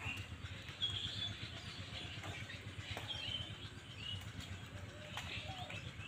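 Small birds chirping in short calls over a steady low rumble, with a few soft clicks.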